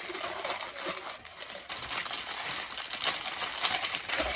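Crinkling and rustling with many scattered light clicks and clinks, as of plastic wrapping and dishes being handled.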